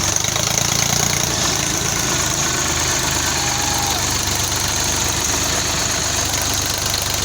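Sonalika tractor's diesel engine running steadily at an even pace.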